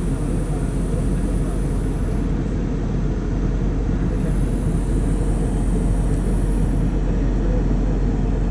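Steady low roar of an airliner in flight, its engines and rushing air heard from inside the cabin.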